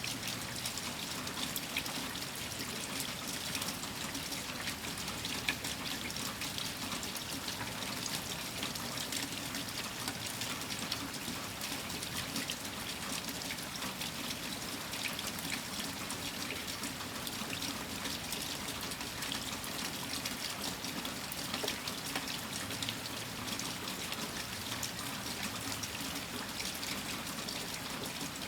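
Steady rain from a winter storm, with many small drop impacts and water trickling and pouring as runoff, holding an even level throughout.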